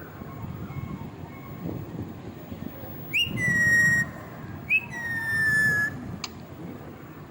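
Ringneck parrot whistling twice: each whistle opens with a quick upward flick and then holds a long, slightly falling tone.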